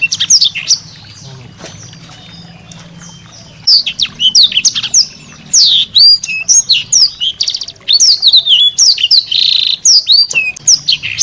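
A small songbird singing a fast, varied song of quick falling whistles, mixed with harsher notes. The song pauses for about three seconds soon after the start, then carries on densely.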